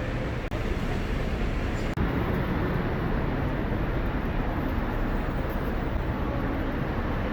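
Busy street ambience: a steady wash of traffic noise with brief breaks where the shot changes.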